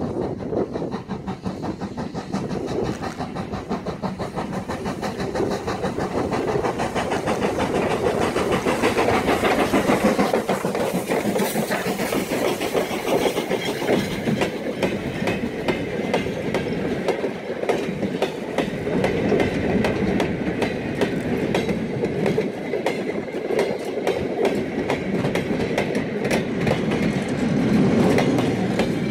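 A train of flat goods wagons rolling past close by, their steel wheels clattering over the rail joints in a continuous clickety-clack.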